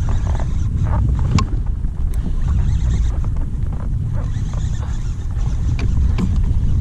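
Wind buffeting the microphone on a kayak: a steady, uneven low rumble with a few small clicks and knocks scattered through it.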